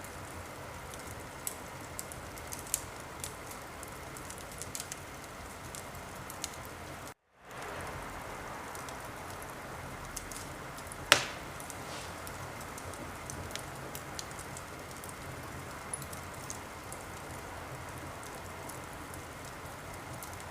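Wood fire crackling in a fireplace: a steady hiss with scattered small pops and snaps, and one loud pop about eleven seconds in. The sound cuts out completely for a moment about seven seconds in.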